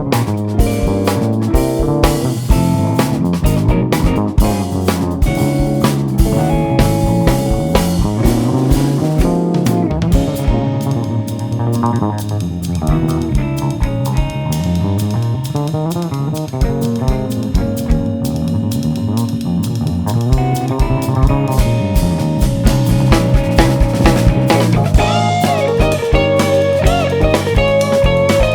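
Live instrumental jazz-fusion band playing, with electric guitar, a walking bass line and a busy drum kit. A higher lead melody comes in near the end.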